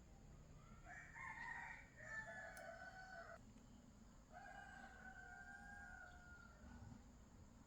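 A rooster crowing faintly, two long calls one after the other.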